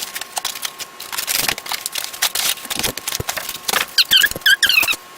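Styrofoam packing and packaging being handled: crackly rustling and clicks, then from about four seconds in a quick run of squeaks as foam rubs against foam.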